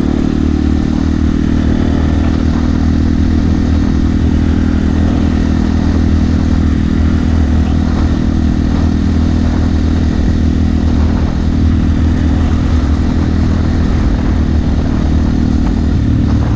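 Yamaha TT-R250 dirt bike's single-cylinder four-stroke engine running at a steady cruise while riding, its note holding even and shifting slightly near the end.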